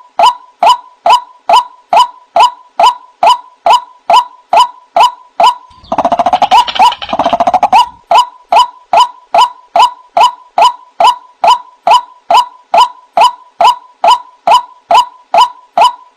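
White-breasted waterhen (ruak-ruak) calling: a steady string of short notes at about two a second, broken about six seconds in by two seconds of faster, louder, harsher calling.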